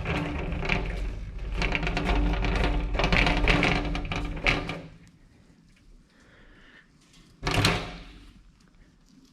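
A small wheeled metal tool cart rolled across the shop floor on its casters, rattling and rumbling for about five seconds, then one short thud about seven and a half seconds in as it is set in place.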